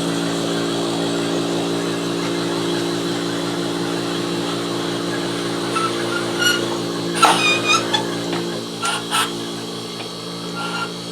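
Small pump motor on a brake booster test bench running steadily, drawing vacuum on a rebuilt Midland Ross vacuum brake booster. A few short squeaks come through about halfway in.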